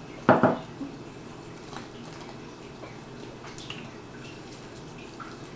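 Two sharp plastic knocks in quick succession just after the start, then a few small faint clicks and rustles: Kinder Surprise egg capsules and toy pieces being handled and opened on a table.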